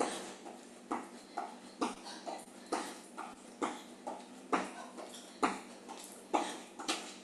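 Jumping jacks in running shoes: feet landing on the floor in a steady rhythm, a thud about once a second with lighter footfalls between.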